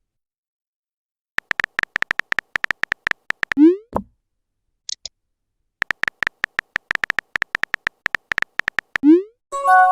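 Phone-chat sound effects: two runs of rapid keyboard-typing clicks, each ending in a short rising whoosh as a message is sent, with a brief high blip between them and a short chime near the end.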